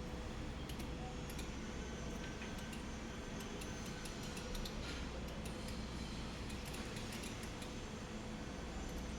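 Steady machine hum with many light, irregular clicks and ticks scattered over it.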